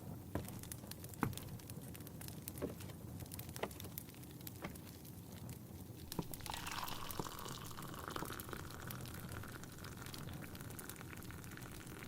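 Fireplace crackling with sharp pops, which are most distinct in the first half. About six and a half seconds in, tea starts pouring into a cup, a steady trickle that lasts about five seconds over the crackle.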